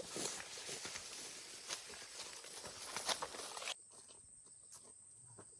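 Footsteps and rustling through forest undergrowth, with many small snaps and crackles. About two-thirds in the sound cuts off suddenly to a quiet scene with a steady high insect drone.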